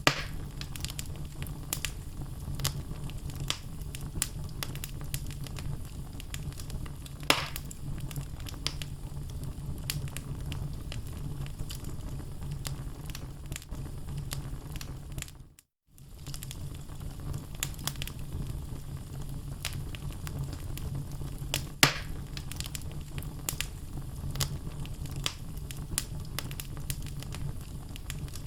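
Wood logs burning in a fireplace: a steady low fire rumble with frequent sharp crackles, and two louder pops. The sound cuts out briefly about halfway, then resumes.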